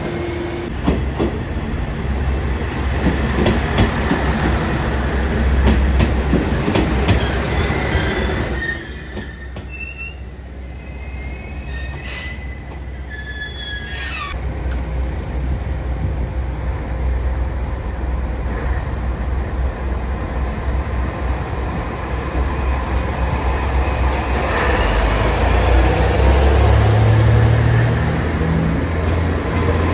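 JR Shikoku 1500 series diesel railcar running on the rails with clicking over the rail joints, then a high thin squeal about nine to fourteen seconds in. After a quieter spell, its diesel engine rumble builds up again near the end.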